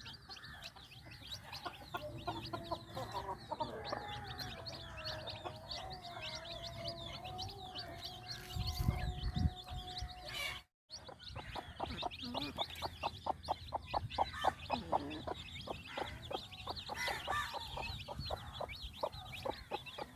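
A mother hen clucking to her chicks while the chicks peep over and over. In the second half her clucks come quickly, several a second. The sound cuts out briefly about ten seconds in.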